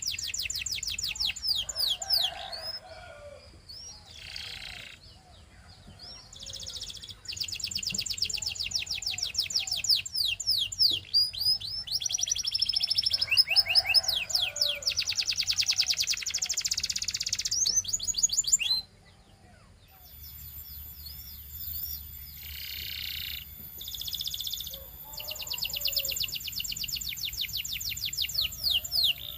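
Belgian canary singing: long rolling trills of rapidly repeated high notes, broken up by short phrases. The song stops abruptly about two-thirds of the way through, then resumes.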